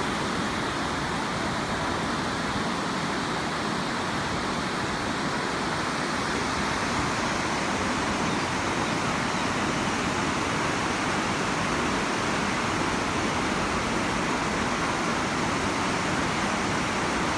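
Rushing floodwater after heavy rain: a steady, even rush with no change in level.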